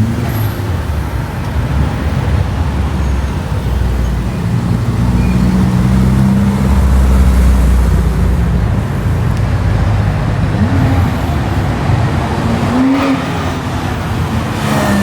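Cars driving past on the road with their engines running, the deep engine sound swelling to its loudest about six to eight seconds in as one passes close.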